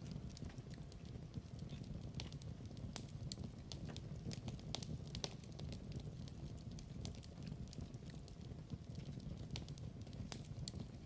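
Wood fire burning in a fireplace: a steady low rumble with irregular crackles and pops of different sizes.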